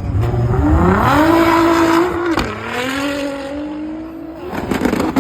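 Nissan GT-R R35's twin-turbo V6 accelerating hard from a launch-control start: engine pitch climbs, drops sharply with a short crack at a quick upshift about halfway through, climbs again, and drops at another shift near the end.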